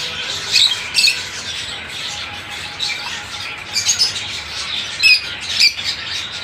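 A chorus of caged birds squawking and chirping, many short, overlapping high calls with no steady rhythm, loudest about a second in and again around four to six seconds in.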